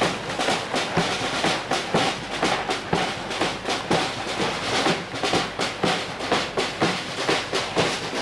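Parade drums beating a steady marching rhythm of sharp, evenly spaced strokes.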